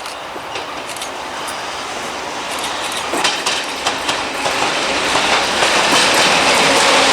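Freight train of loaded self-discharging hopper wagons, hauled by a T448p diesel locomotive, rolling past on an industrial line. The wheels give sharp clicks over the rail joints, and the train grows steadily louder as it approaches.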